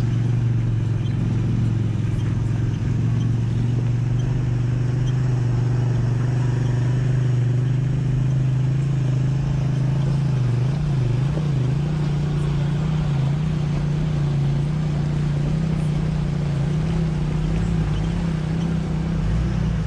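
Jeep Cherokee XJ engine running steadily under light load at trail speed, a low drone whose pitch shifts slightly partway through.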